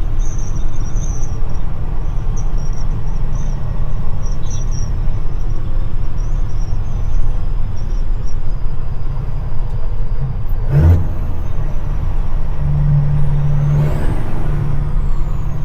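CAT C-15 diesel engine of a dump truck running steadily under way, heard from the cab, with a faint high turbo whistle above the engine note. There is a single sharp clunk about eleven seconds in. The engine note strengthens and the whistle rises and falls near the end.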